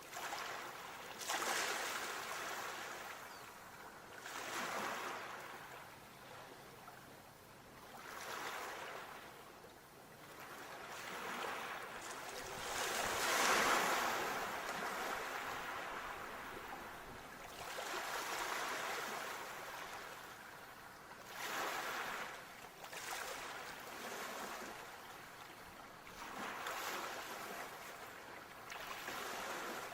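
Sea waves washing in, one surge of hissing water every few seconds, the loudest about halfway through.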